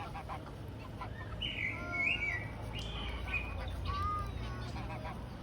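Birds chirping and calling in short, high notes, with a steady low rumble underneath.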